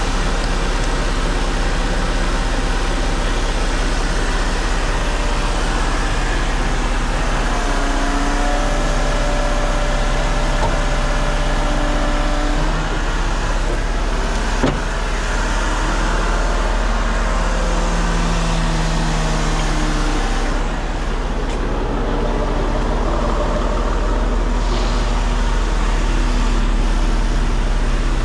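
Heavy truck running steadily, a deep low drone with shifting tones over it, and a single sharp click about fifteen seconds in.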